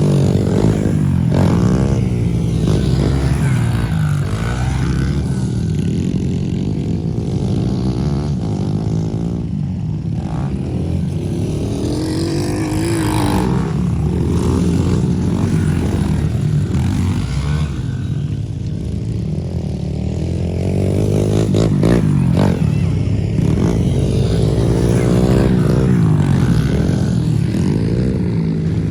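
Pit bike engine running and revving, its pitch rising and falling as it rides around, with a few brief knocks about two-thirds of the way through.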